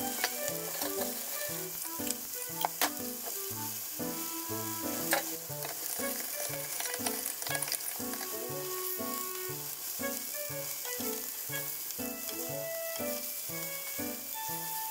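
Lotus-root tsukune patties sizzling steadily in oil in a frying pan. A few sharp clicks sound in the first five seconds.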